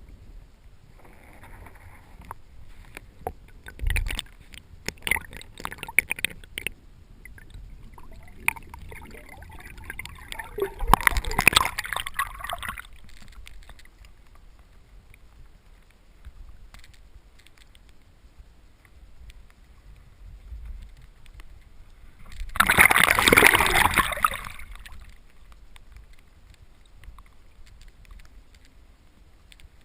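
Water sloshing and gurgling around a Hobie Revolution pedal kayak, with scattered small knocks and two louder rushes of splashing, a short one about a third of the way in and the loudest a little past the middle of the second half.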